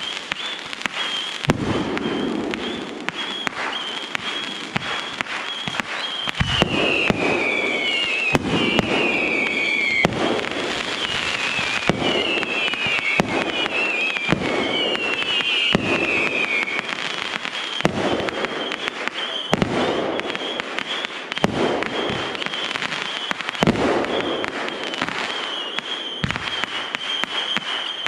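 Aerial fireworks show: shells bursting in repeated booms every second or two, with crackle between them. Through the middle stretch a run of high whistles falls in pitch, one after another.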